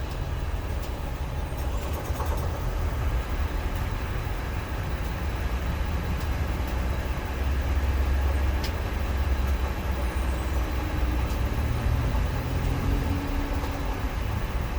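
2001 Ford Expedition's 5.4-litre Triton V8 running steadily with a low wobble and rattle noise.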